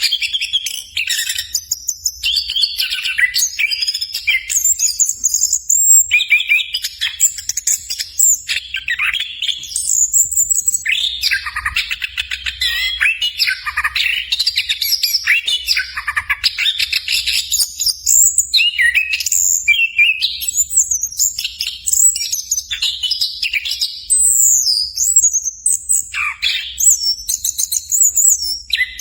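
Chestnut-capped thrush (anis kembang) singing a long, almost unbroken stream of fast, varied phrases with short pauses, including a rapid, dense rolling run about halfway through.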